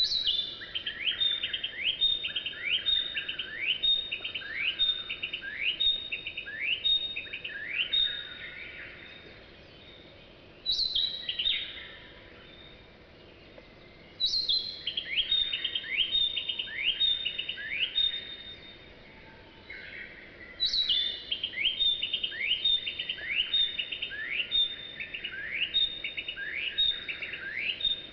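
A songbird singing long phrases of quickly repeated notes, each phrase opening with a sharp high falling note, with short pauses between phrases.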